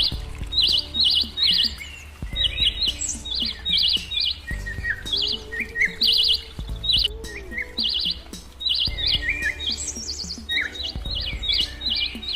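Birds chirping in quick runs of three or four high notes, repeated every second or so, over soft background music.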